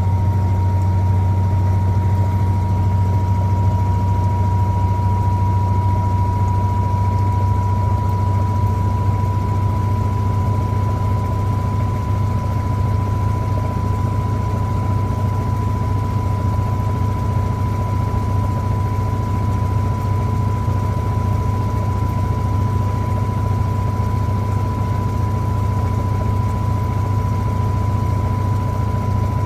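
Electrolux LTA15 washing machine running steadily: a low motor hum with a steady high whine that rises slightly over the first few seconds, then holds.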